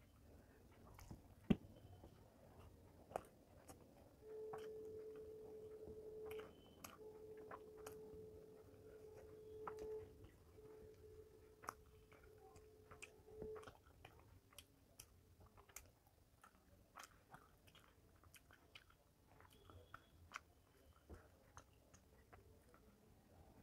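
Faint, close-miked chewing and small mouth clicks from a person eating rice and fish by hand. A sharp click stands out about a second and a half in, and a steady low hum comes and goes in three stretches in the middle.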